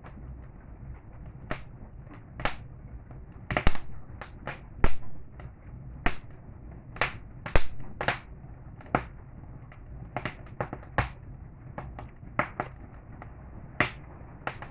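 Campfire burning, the wood crackling with irregular sharp pops, a few much louder than the rest, over a low steady rumble.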